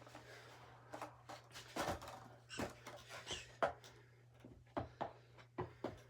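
A series of soft knocks and scuffs from a skateboard and feet on carpet during a trick attempt, with a faint steady low hum underneath.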